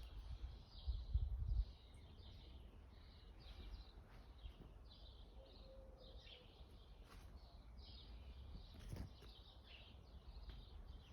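Small birds chirping over and over, short high calls coming a couple of times a second. A bout of low rumbling noise, the loudest thing here, runs through the first second or two.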